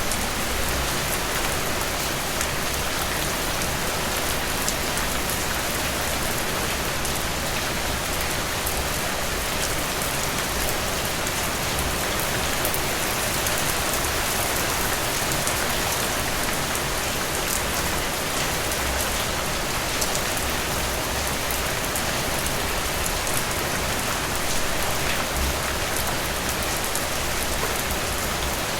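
Heavy rain falling steadily, a dense even hiss of rain on surfaces with many individual drop ticks.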